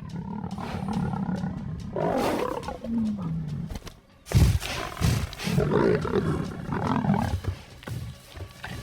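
Lioness snarling and roaring in a run of rough, irregular calls, the loudest breaking out about four and a half seconds in.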